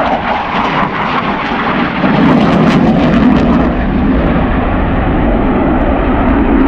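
Fighter jet's engines heard during a pass, growing louder about two seconds in with a brief crackle at the loudest point, then holding steady.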